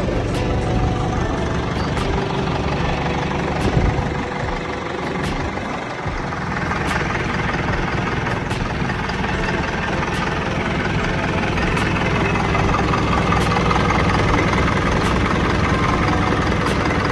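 Kirloskar diesel engine running steadily at idle.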